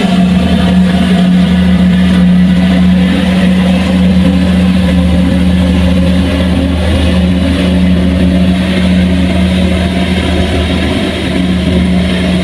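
Engine of heavy farm machinery running loudly and steadily at a constant speed, a deep even hum.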